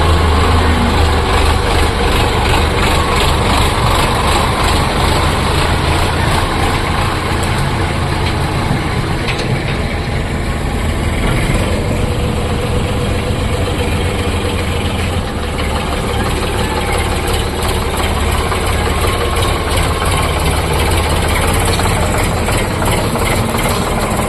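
Diesel tractor engine running steadily, a deep, constant drone with loud mechanical noise over it.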